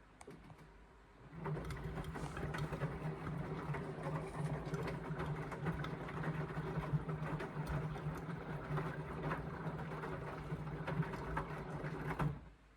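Indesit washing machine's motor turning the drum in the wash phase: a steady hum with the load tumbling and clicking inside. It starts about a second in and stops abruptly just before the end, one tumble of the wash rhythm.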